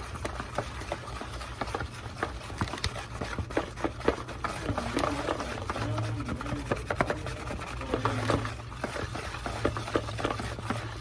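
Wire whisk beating pancake batter in a bowl, with rapid, irregular clicks and taps of the wires against the bowl over a wet stirring noise.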